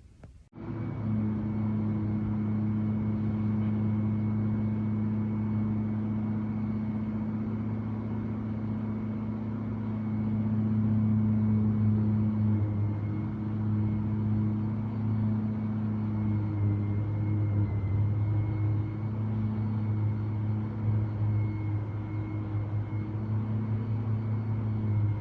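Construction machinery running steadily: an even low drone with a faint high whine above it, starting abruptly about half a second in.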